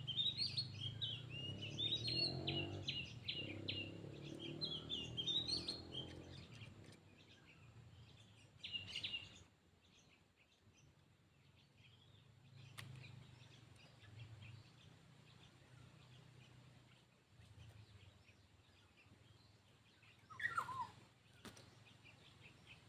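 Oriental magpie-robin singing a rapid run of varied, chirping phrases for about six seconds, then going quieter with scattered short calls, a brief burst of song about nine seconds in and a single falling call near the end. A steady low hum lies underneath.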